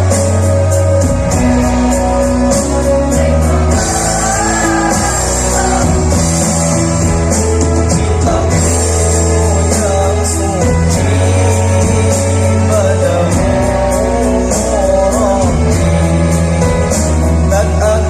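Choir singing over accompanying music, with held bass notes and a steady beat.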